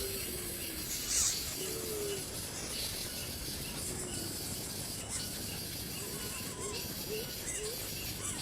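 Steady high insect hum with a regular ticking about four times a second, a few faint short calls, and a brief louder hiss about a second in.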